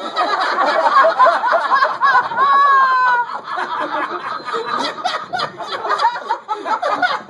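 Several people laughing loudly together, voices overlapping, with one drawn-out falling laughing note about two and a half seconds in.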